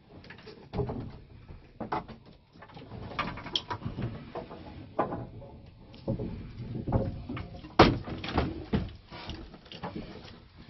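Irregular knocks and clatter of tools and parts being handled, with one sharp knock a bit under eight seconds in.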